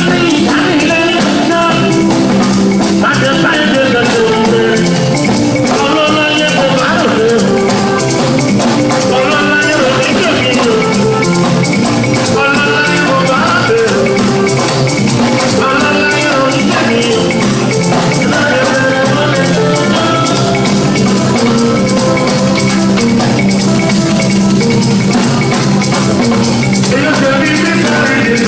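Live band playing an instrumental passage of Latin-style dance music, with shakers and drums keeping a steady beat under a lead melody line.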